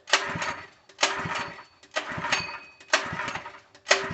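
Recoil starter pulled again and again on a 3 hp small engine, about once a second, each pull cranking the engine over without it firing: a no-start, which the owner puts down to a fuel delivery problem.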